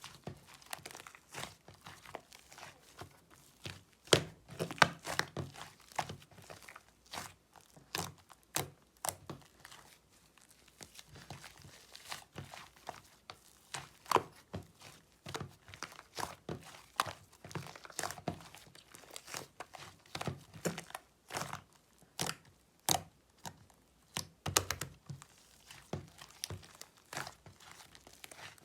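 Ice-cream clay slime being squeezed, stretched and poked by hand: a steady run of irregular sticky crackles, small pops and soft thunks.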